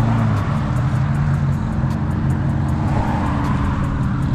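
A car engine running, with background music playing over it: deep bass notes that change pitch and a steady ticking beat.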